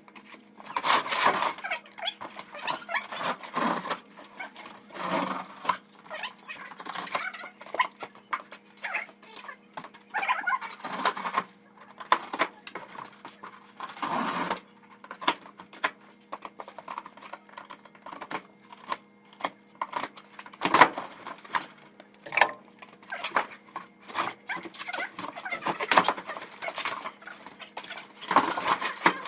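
Irregular metal clinks, knocks and scrapes of a monkey wrench working on water-heater pipe fittings, over a faint steady hum.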